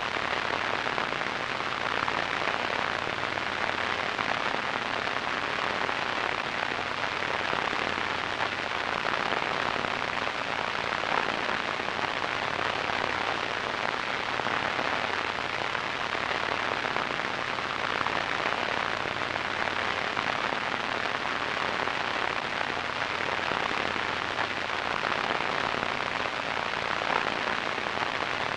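Radio static: a steady hiss with a fine crackling grain, even in level throughout.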